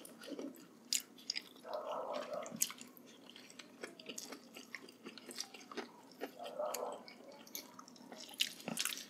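Close-up chewing and lip smacking of people eating braised pork hock (pata hamonado) with their hands: a run of many small, sharp mouth clicks between soft chewing.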